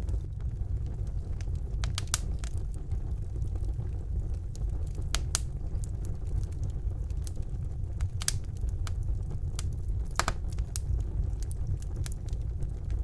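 Wood fire burning in a fireplace: a steady low rumble of the flames with scattered sharp crackles and pops, a few louder ones about 2, 5, 8 and 10 seconds in.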